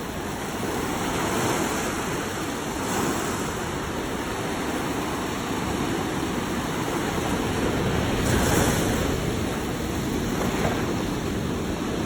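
Stormy Caspian Sea: rough waves breaking and washing in a steady surging rush, with louder breakers about three seconds in and again after eight seconds, and wind buffeting the microphone.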